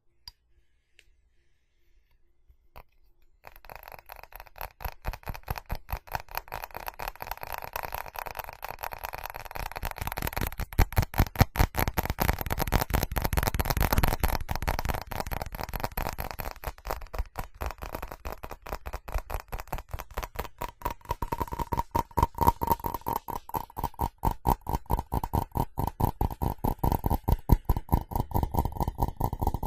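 Fast tapping on a ceramic object, rapid sharp taps starting about three and a half seconds in after a few faint clicks. Past the middle the ceramic rings at one steady pitch under the taps.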